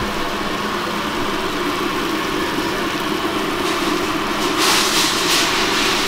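Fried rice sizzling in a pot over a low gas flame, under a steady low hum. The sizzle grows louder about four and a half seconds in.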